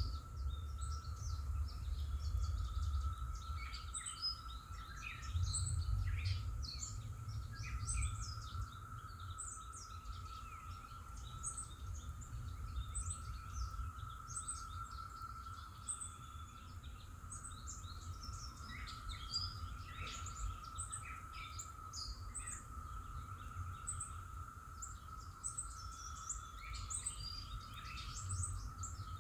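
Songbirds chirping and trilling in many short calls over a steady high drone and a low rumble of wind or distant traffic.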